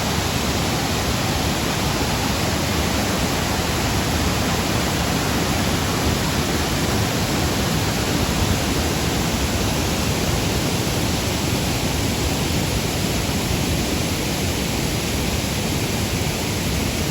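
Waterfall: a steady, unbroken noise of falling water.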